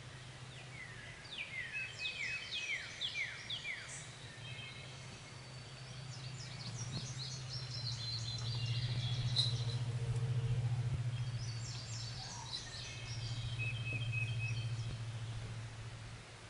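Songbirds singing: a run of quick, falling whistled notes a second or two in, then longer warbled phrases twice more. Under them runs a steady low hum that swells through the middle.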